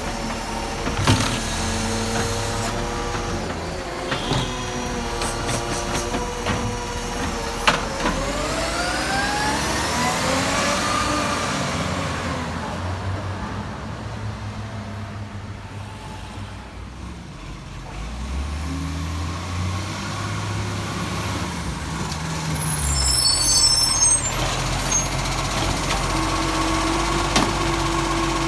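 Garbage truck working its collection: the diesel engine runs and revs up, with a rising pitch for a few seconds from about eight seconds in. Sharp knocks come about a second in and again just before the rev. A steady whine sets in near the end.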